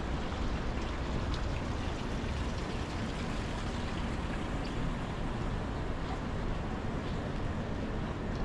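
Steady city street noise: a low rumble of traffic and an even hiss, with a few faint scattered ticks.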